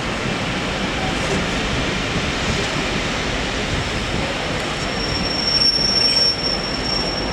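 Train running slowly along the rails with a steady rumble; about five seconds in, a thin high-pitched steel wheel squeal sets in and holds.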